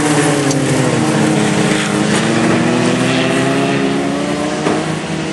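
Several racing cars' engines running hard together, their overlapping notes rising and falling as they accelerate and lift off.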